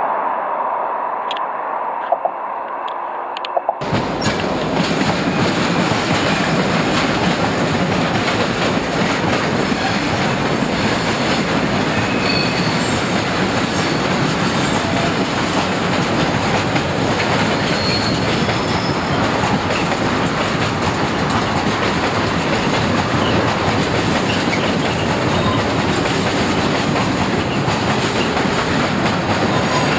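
Freight train of pressurised gas tank wagons rolling past close by: a loud, steady rumble and clatter of steel wheels on rails and points, with a few faint high squeals from the wheels. For the first few seconds there is only a fainter hum with a few sharp clicks, before the train noise cuts in suddenly.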